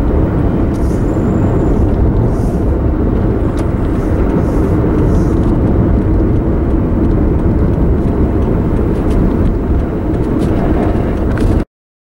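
Car road noise heard from inside the cabin while driving: engine and tyres give a steady, even low rumble. It cuts out abruptly to total silence for about a second near the end.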